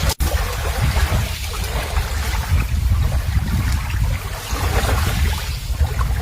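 Running water with wind buffeting the microphone, a steady rushing noise with a heavy low rumble, briefly cut out just after the start.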